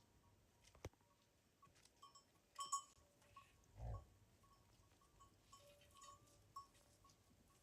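Faint farm-animal calls with a few short clicks and knocks, over near-quiet background.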